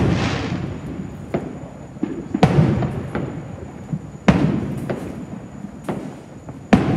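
Aerial fireworks shells bursting: a run of sharp booms roughly once a second, the loudest about two and a half, four and a quarter and nearly seven seconds in, each trailing off in a fading rumble and crackle.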